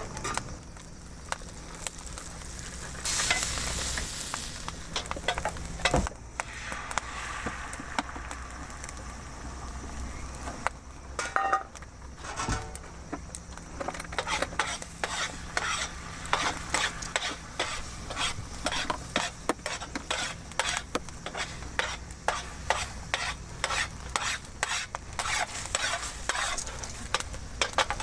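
Food sizzling in an iron frying pan over a wood fire, with a utensil scraping and clicking against the pan. The clicks come thick and fast from about halfway through.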